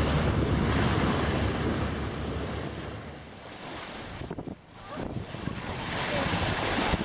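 Wind buffeting the microphone over the rush of water aboard a sailboat under way. It dies down briefly about two-thirds of the way through, then builds again.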